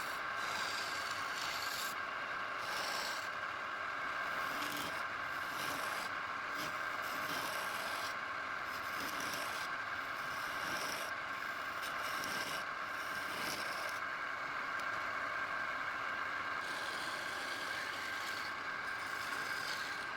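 Wood being worked with an abrasive: repeated rubbing strokes about once a second over a steady high hum, evening out into continuous rubbing for the last few seconds.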